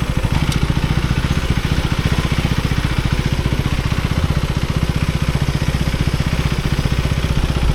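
KTM Duke 390's single-cylinder engine idling steadily, with an even, rapid low pulse.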